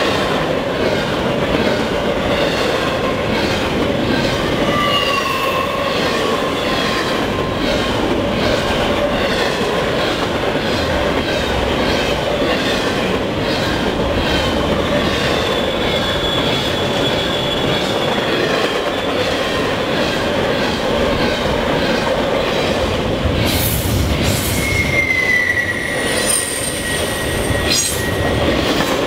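Freight train of intermodal well cars rolling past with a steady rumble of wheels on rail. Wheel flanges squeal now and then in drawn-out tones that slide down in pitch, the longest near the end. A few sharp metallic clanks come near the end as well.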